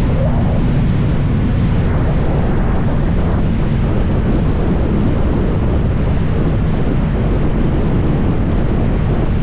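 2024 Kawasaki ZX-6R's inline-four engine running at a steady speed, with heavy wind noise buffeting the microphone.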